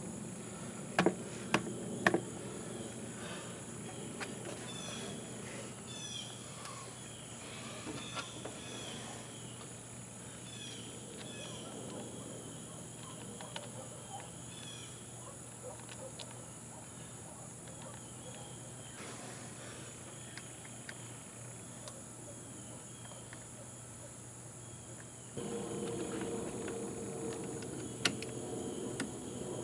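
Outdoor ambience: a steady high-pitched insect drone with birds chirping, a few sharp clicks in the first couple of seconds, and a low hum that comes in near the end.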